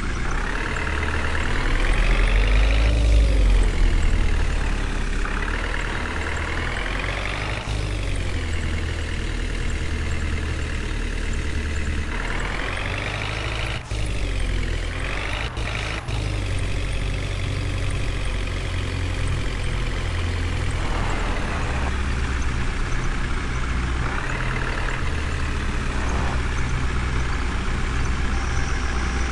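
Engine running, its pitch rising and falling several times as it revs up and down, with a few short clicks around the middle.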